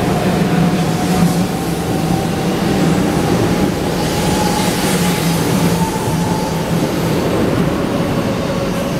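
500 Series Shinkansen train pulling out of the station, its carriages running past close by with loud, steady rushing wheel and running noise and a thin whine that slowly rises in pitch as it gathers speed.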